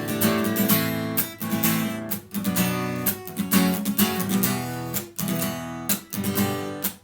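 Acoustic guitar strummed in a rhythm of sharp chord strokes, with short choked gaps between some of them.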